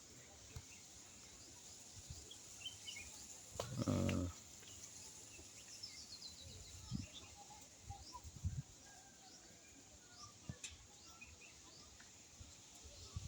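Faint birds chirping and calling, with one descending trill about six seconds in. A short hum-like voice sound about four seconds in stands out as the loudest event, and a few soft thuds come in between.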